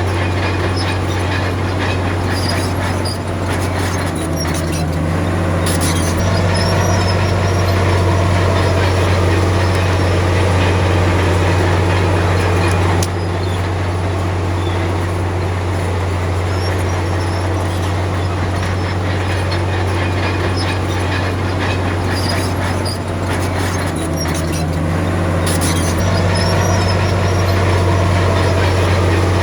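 Komatsu D53P crawler bulldozer working, a loud steady deep diesel drone with the metallic clatter of its steel tracks; the engine note changes briefly twice as the load shifts.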